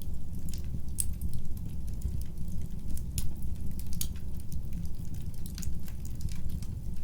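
Fireplace fire burning with a steady low rumble, crackling and popping several times a second, with a few louder pops.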